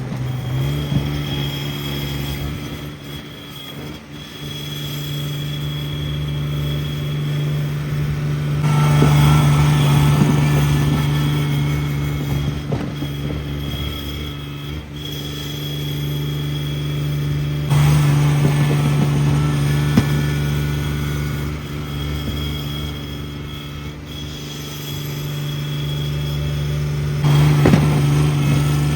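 Cub Cadet 1782 garden tractor engine running steadily while plowing snow with a front blade. Its sound swells and fades over stretches of several seconds, loudest in the middle and again near the end.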